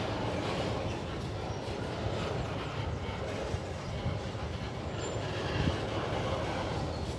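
Empty freight train of flat pulp wagons rolling past, with a steady rumble and rattle of steel wheels on the rails and a brief faint squeal about five seconds in.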